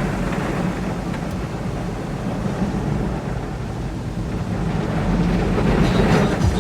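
Soft-cloth automatic car wash running: a steady low rumble with rushing water and machinery noise, growing louder near the end.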